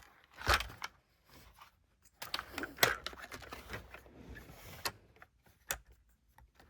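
Light clicks and plastic-and-metal clattering as a diecast toy hauler's trailer is handled, with a busier stretch of small rattles in the middle and a few separate sharp clicks.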